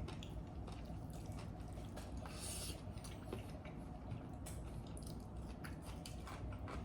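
Quiet eating sounds: soft wet chewing and small clicks of utensils on a bowl, with one short slurp about two and a half seconds in.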